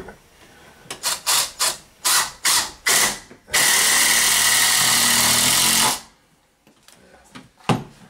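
Power drill driving a three-inch screw at an angle (a toe screw) into a 2x4 block. Several short trigger bursts start the screw, then a steady run of about two and a half seconds drives it home and cuts off suddenly. A single knock near the end.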